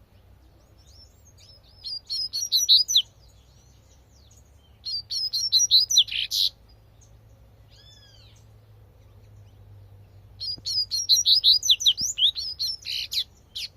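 Double-collared seedeater (coleirinho) singing its 'tui-tui' song: three bursts of rapid, high twittering notes, each one to three seconds long, with a single arching whistled note between the second and third.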